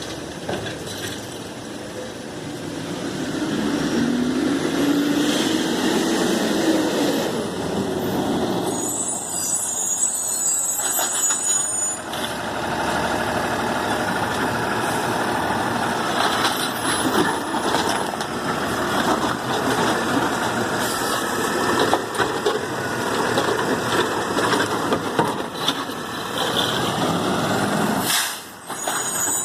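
Garbage truck at work: its engine running and revving, with a rising whine in the first several seconds and a high-pitched brake squeal about nine seconds in.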